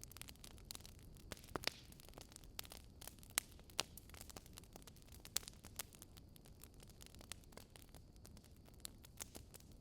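Wood fire crackling in a fireplace: irregular sharp pops and snaps over a low hiss, the loudest few pops in the first half.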